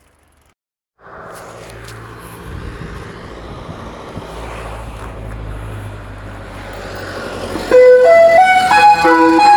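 A steady low rumbling noise starts about a second in. About three-quarters of the way through, a loud electronic chime tune begins, played one held note at a time.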